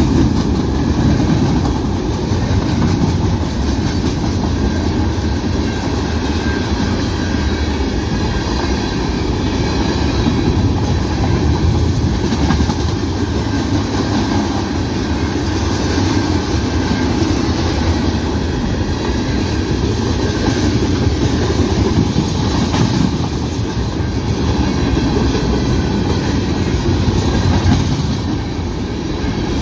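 A Canadian National mixed-freight train's cars rolling past, with a steady rumble of wheels on the rails.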